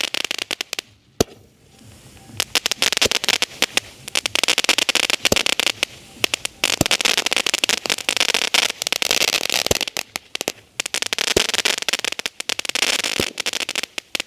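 Sony 'Sweet Dreams' 12-shot aerial firework cake firing: continuous dense crackling, broken by sharp bangs every one to three seconds, with short lulls between some shots.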